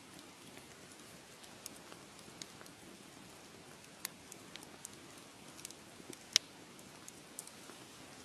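Wood fire crackling in a fireplace: a soft steady hiss with scattered sharp pops, the loudest about six seconds in.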